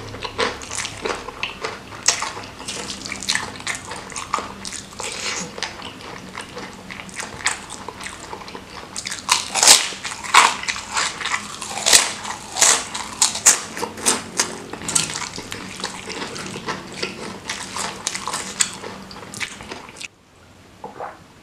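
Close-miked wet chewing and mouth smacking of seblak, soft boiled crackers in a spicy chili sauce, as a series of irregular clicks. The loudest bites come about halfway through. The chewing stops abruptly about a second before the end.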